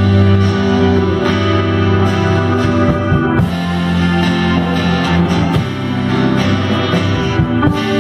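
Guitar-led rock music played live by a small band, with sustained electric guitar chords that change every second or two.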